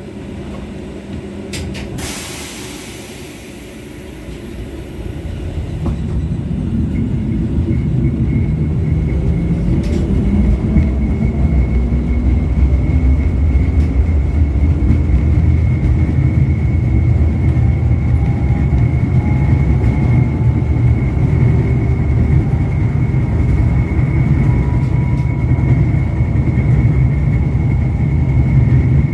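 LVS-86K articulated tram heard from inside the passenger saloon as it pulls away and accelerates. A short hiss comes about two seconds in. Then the rumble of wheels and running gear builds and holds, with a motor whine slowly rising in pitch and a steady high tone above it.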